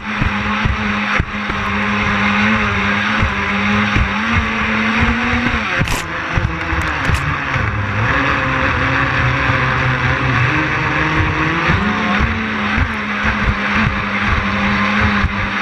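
Twin brushless electric motors of an RC catamaran boat running on the water, a steady whine over rushing water and wind hiss. About six seconds in the whine slides lower as the throttle eases, then rises back near twelve seconds.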